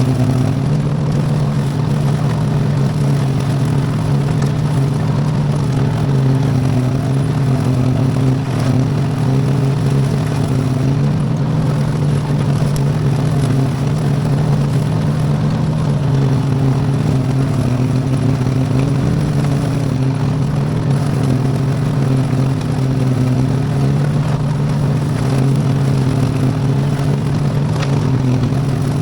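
V-twin Briggs & Stratton engine in an Iseki tractor running steadily at constant speed, driving a bush hog mower.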